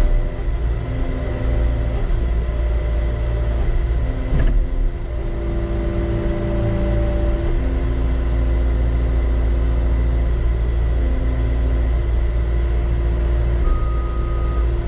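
Skid steer's diesel engine running steadily, with higher tones that come and go over it and a single knock about four and a half seconds in.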